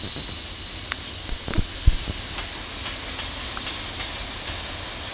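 JR Freight electric locomotives (EF210 and EF65) rolling past on the yard tracks. A steady high wheel squeal sounds through the first half, and the wheels knock and click over rail joints, loudest about two seconds in.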